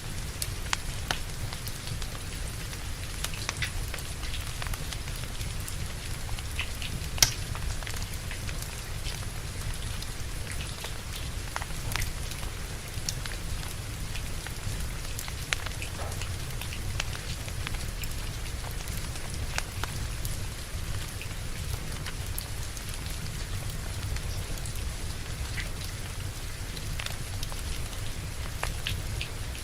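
Steady rain falling, with the scattered crackles and pops of a burning wood fire; the sharpest pop comes about seven seconds in.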